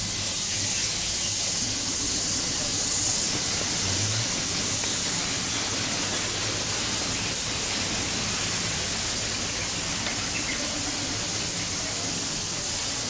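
Steady hissing background noise. In the first three seconds a high-pitched buzz pulses on and off about four times.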